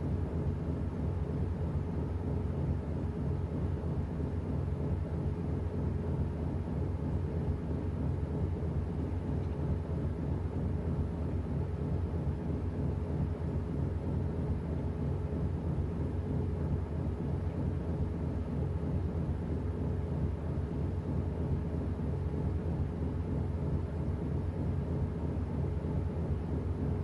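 Washing machine running: a steady low mechanical hum that holds even throughout.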